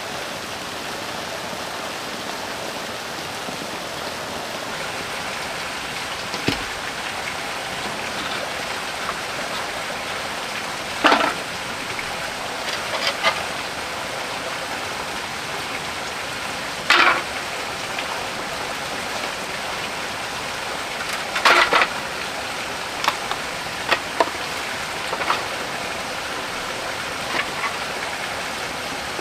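Steady rain falling. A scatter of short, sharp knocks or clicks sits over it every few seconds, the loudest about eleven, seventeen and twenty-one seconds in.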